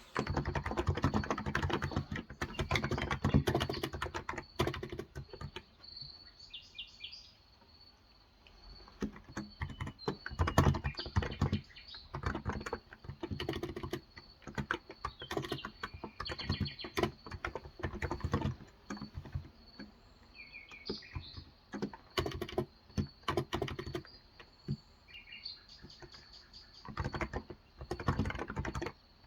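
Typing on a Cox Endeavour electrostatic-capacitive keyboard with 35 g switches, keystrokes coming in bursts with short pauses between them. Birds chirp briefly now and then behind it.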